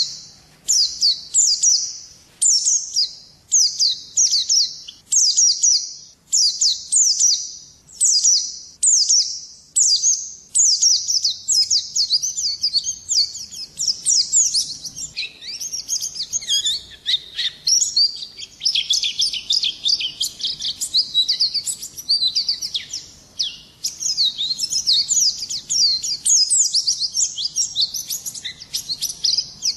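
Pleci (white-eye) songbird singing: quick, high chirping phrases of short downward-sweeping notes, repeated about once or twice a second at first, then running together into a denser, faster warble from about ten seconds in.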